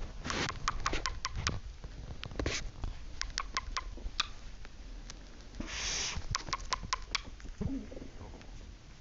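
Cockatiels making a run of sharp clicks and taps, with a few short hissy bursts, the longest about six seconds in.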